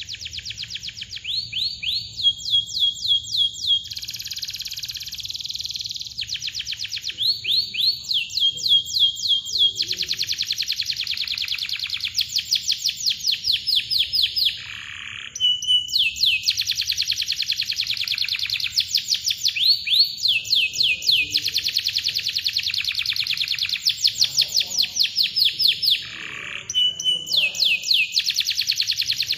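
Domestic canary singing: long, tight rolls of rapidly repeated sweeping notes, broken by short chirps and brief pauses.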